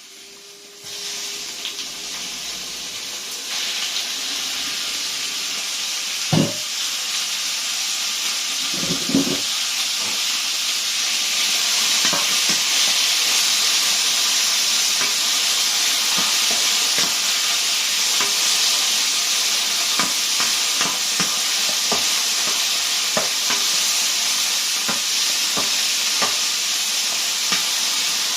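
Chicken frying in hot oil in a wok: a steady sizzle that starts about a second in and builds, crackling with small spatters, with a couple of knocks of a utensil against the wok.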